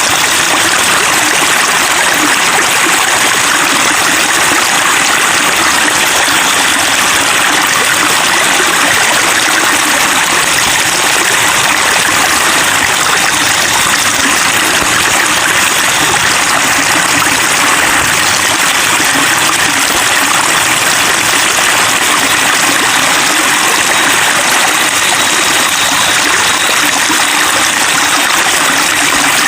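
Steady babbling of running water, a small stream or water flowing over rocks, with no change in level.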